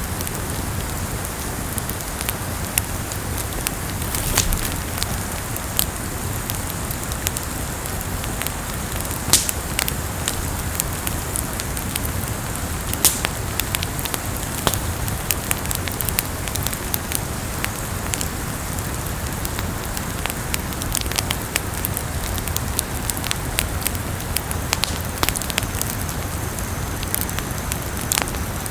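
Wood campfire burning: a steady hiss and rumble with irregular sharp crackles and pops throughout, a few louder snaps among them.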